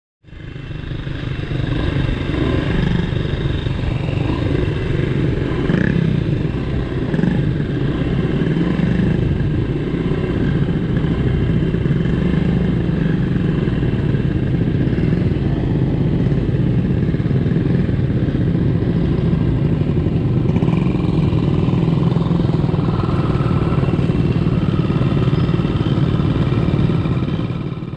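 Small vintage Honda motorcycle engine running steadily while being ridden, easing off slightly near the end.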